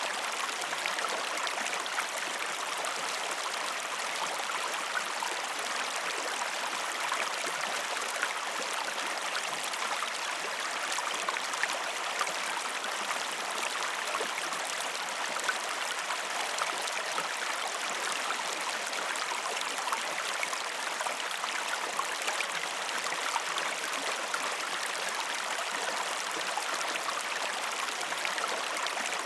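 Waterfall water falling and splashing: a steady, even rush full of small splashes.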